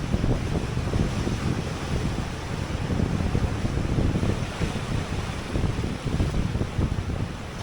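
Wind buffeting the microphone, with ocean surf washing beneath it.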